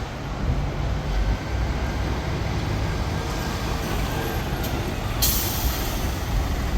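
Scania-chassis Comil Invictus coach's diesel engine running steadily, with a loud hiss of released air from its air brakes starting about five seconds in.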